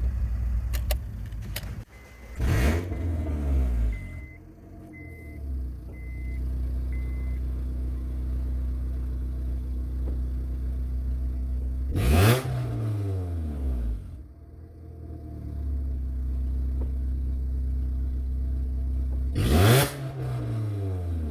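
Honda Civic 1.4-litre D14Z6 four-cylinder petrol engine idling on test, blipped three times, each rev rising sharply and falling back to idle.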